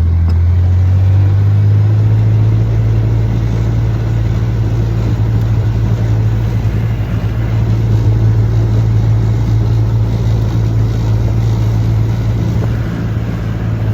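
Car running on the road, heard from inside the cabin: a steady low engine and road drone that rises a little in pitch over the first couple of seconds as the car speeds up, then holds steady.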